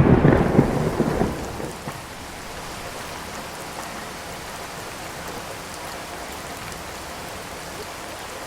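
Hail and rain pelting a car, a dense, loud drumming of many small impacts for about two seconds that then drops suddenly to a steady, lighter patter.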